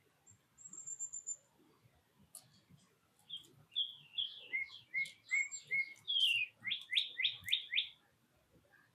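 Wild songbirds calling: a brief, very high, thin trill about half a second in. From about three seconds in, a run of clear whistled notes, each sliding down in pitch, quickens into a rapid series and stops near the end.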